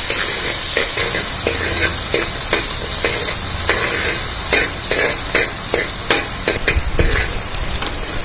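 Shallots and green chillies sizzling in hot oil in an unglazed clay pot, with a steady frying hiss. A steel spoon scrapes and knocks against the clay two or three times a second as they are stirred.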